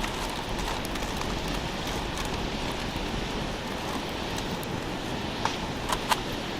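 Wood campfire burning with a steady hiss, a few sharp crackles near the end.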